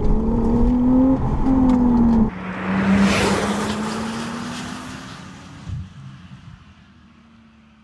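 Porsche 911 Targa 4's turbocharged 3.0-litre flat-six pulling hard from inside the cabin: its note rises, breaks off briefly, then falls. Then the car goes by close and drives away, the engine fading steadily into the distance.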